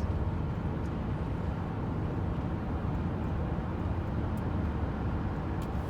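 Steady low rumble of tyres and engine inside a moving car's cabin.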